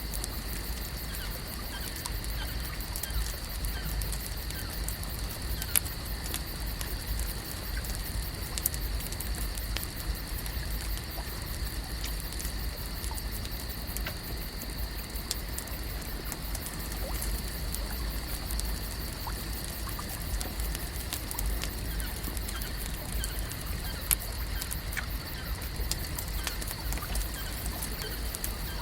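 Lake-shore ambience: water lapping and trickling, with scattered small clicks and pops over a steady high-pitched hum and a low rumble.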